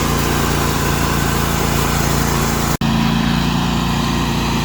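Small engine idling steadily, a low even hum with a momentary gap about three seconds in.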